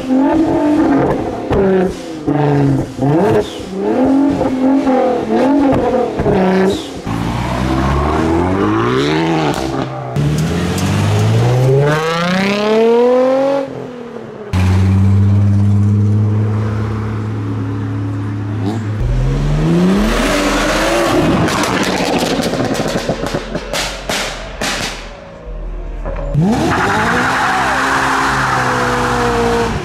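A tuned car engine revved hard over and over, its pitch climbing and dropping, and held briefly at steady revs partway through. Sharp cracks come from the exhaust between revs in the first few seconds and again about two-thirds through.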